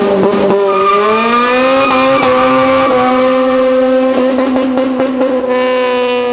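A car engine revved hard as the sedan pulls away and accelerates. Its pitch climbs a little over the first couple of seconds, then holds high and nearly steady.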